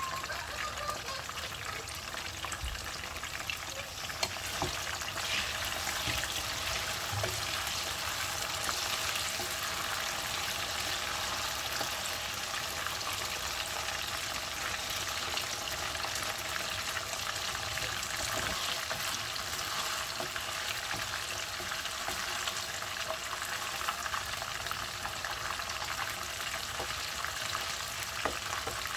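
Marinated chicken pieces deep-frying in hot oil, a steady sizzle with scattered crackles and pops.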